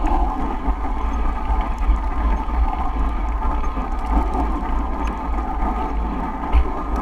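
Wind buffeting the microphone in a blizzard, a steady, gusting low rumble over a hiss of moving air.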